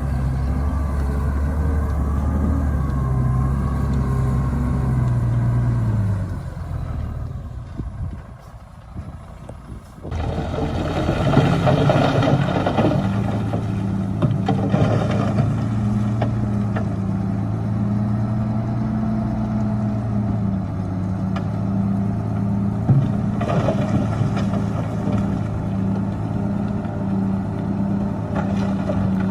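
Heavy diesel earthmoving machinery running steadily. The sound drops away for a few seconds, then comes back suddenly about ten seconds in, louder, with bursts of rougher noise.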